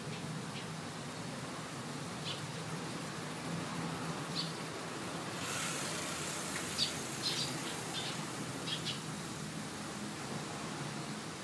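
Wild birds giving short, scattered chirps over a steady outdoor hiss, the calls coming more often in the second half.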